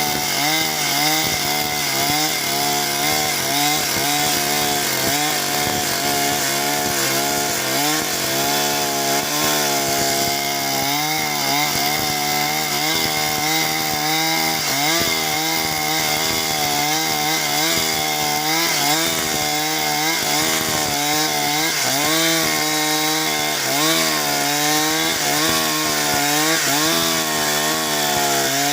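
Two-stroke chainsaw running under load while cutting timber into beams, its engine note wavering up and down as the cut bites and eases.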